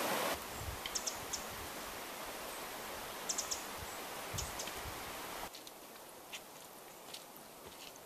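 Quiet forest background hiss with a few short, high bird chirps scattered through it. The background drops quieter about five and a half seconds in.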